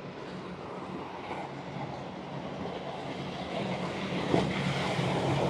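A motorboat's engines running as the boat approaches through the inlet: a steady low drone over rushing noise, growing gradually louder, with a brief sharp click about four seconds in.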